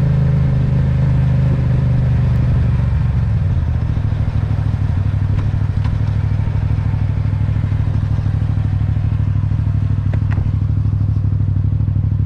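Motorcycle engine running close to the microphone: its revs fall away about three seconds in and it settles into a steady idle.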